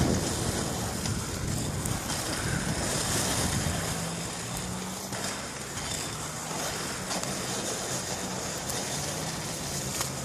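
Wind rushing over the microphone, a steady noise with no speech. A faint steady low hum runs underneath from about four seconds in.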